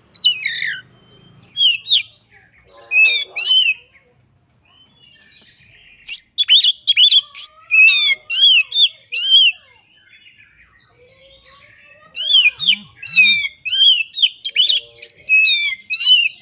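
Oriental magpie-robin (kacer) singing in phrases of rapid, sharp whistled notes that sweep up and down, with pauses of about two seconds between the bursts.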